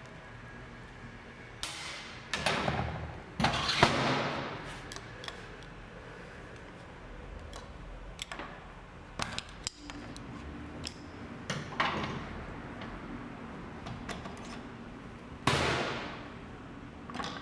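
Metal clicks, knocks and short scraping rattles of hand tools and parts being handled while a Bosch EDC diesel injection pump is taken apart, with three longer, louder rattling bursts spread through.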